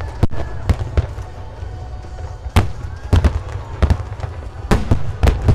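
Aerial fireworks bursting: a string of sharp bangs at uneven intervals, coming thicker near the end, over a steady low rumble of the display.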